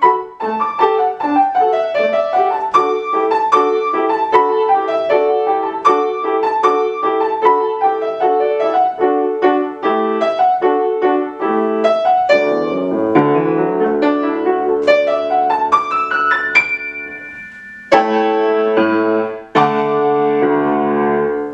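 Solo piano ending a quick dance: a steady stream of short, even notes, then a rising run and a few full closing chords, the last one held and then released.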